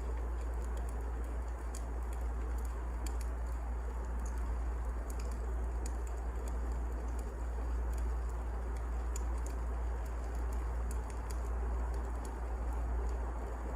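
Firewood burning in a fireplace: a steady low rumble with scattered small crackles and pops throughout.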